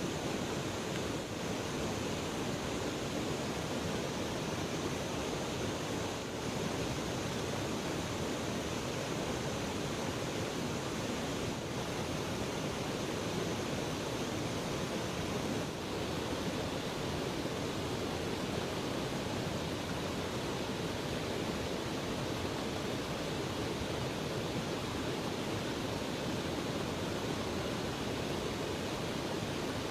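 Steady rushing of flowing river water, an even wash of noise that does not change.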